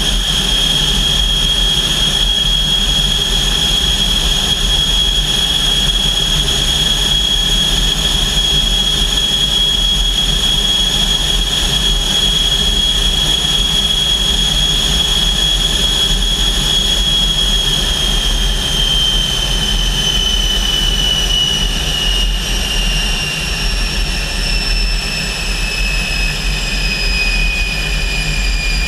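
L-29 Delfín's Motorlet M-701 turbojet running steadily with a loud high whine over a deep rumble. About eighteen seconds in, the whine starts to fall slowly in pitch as engine speed comes down.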